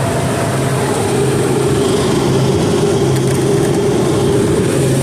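Walk-in freezer refrigeration unit running steadily as the box pulls back down to temperature after repair: a loud mechanical drone with a low hum, and a higher steady tone coming in about two seconds in.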